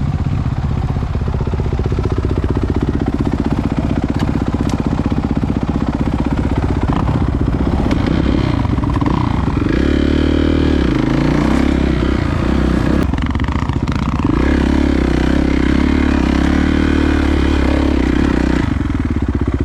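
Dirt bike engine running under load while riding through snow, the revs rising and falling with the throttle, climbing around the middle and again near the end, with some clatter from the bike.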